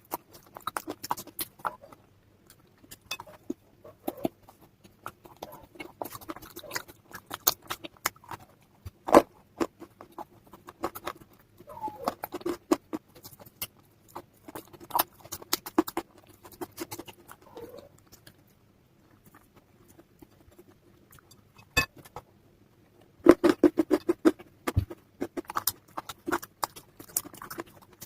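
Close-miked crunching of slate-pencil and baked clay pieces: irregular crisp cracks and crumbling clicks, a few seconds' pause, then a dense flurry of crunches.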